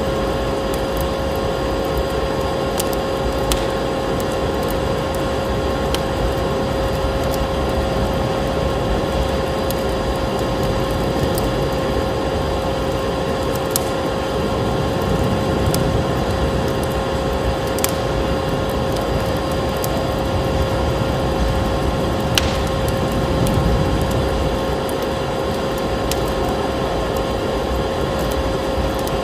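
Wood fire crackling in a fireplace, scattered sharp pops over a loud, steady rushing noise with a constant hum.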